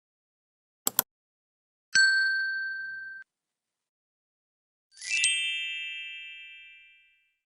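Sound effects for a subscribe button and notification bell. A quick double click comes first. About two seconds in, a bright ding rings for about a second and cuts off. About five seconds in, a second, fuller bell ding fades away over about two seconds.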